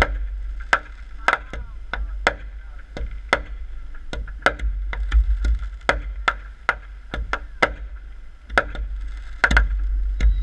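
Consumer fireworks going off in quick succession: a steady, uneven string of sharp bangs and cracks, roughly two a second, over a continuous low rumble.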